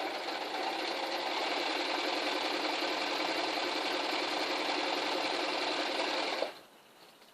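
Domestic electric sewing machine running steadily, stitching through folded debris netting, then stopping abruptly about six and a half seconds in.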